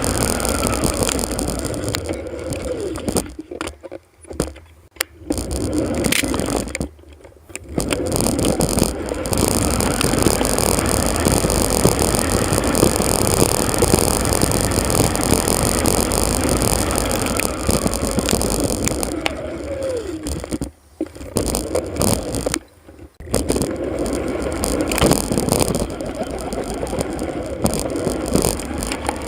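Bicycle riding noise sped up four times: a steady rush of wind and road noise with rattle, which drops away briefly a few times, with a few quick sliding tones.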